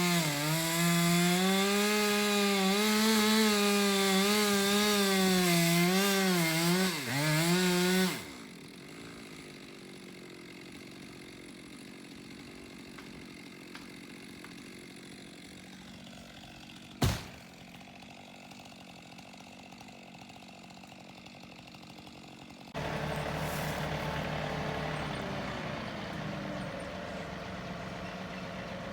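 Stihl chainsaw running at high revs for about eight seconds, its pitch dipping and recovering as it cuts into wood, then stopping abruptly. After a quieter stretch with a single sharp knock midway, a tractor engine starts idling steadily near the end.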